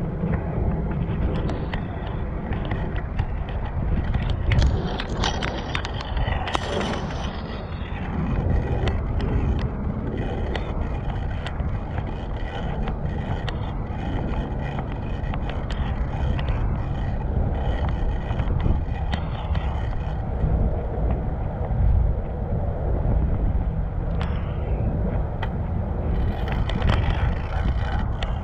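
Bicycle riding over city streets: a steady low rumble of road and wind noise with frequent small clicks and rattles, and a brief louder hiss a few seconds in.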